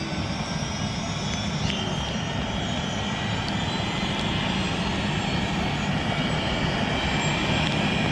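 Helicopter starting up: a steady engine whine over a low rumble, climbing slowly in pitch and getting gradually louder as it spins up.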